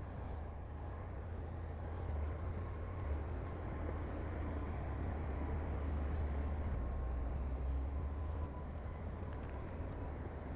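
Heavy earthmoving machinery's diesel engine running steadily with a deep, continuous rumble.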